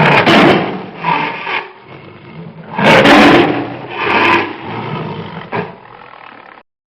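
A large wild animal roaring, about five rough, loud roars and growls in a row, the last one short.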